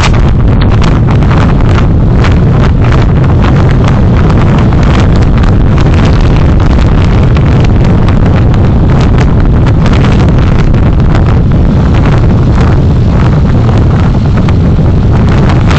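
Heavy wind buffeting on the recording microphone of a moving vehicle. It makes a loud, unbroken low rumble with frequent irregular crackles.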